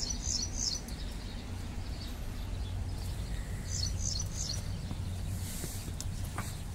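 A small bird chirping: a quick run of short, high chirps at the start and again about four seconds in, over a steady low outdoor rumble.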